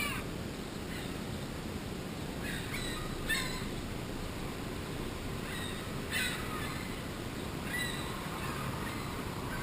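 Seagulls calling overhead: short, falling calls every couple of seconds over a steady low rushing background.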